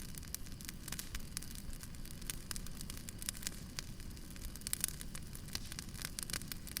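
Firewood burning, crackling with frequent small sharp pops over a steady low rumble.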